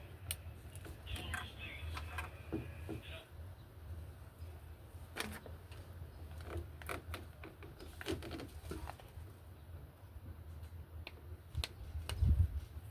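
Scattered light clicks and knocks of handling at irregular intervals, over a low steady hum, with a heavier low thump near the end.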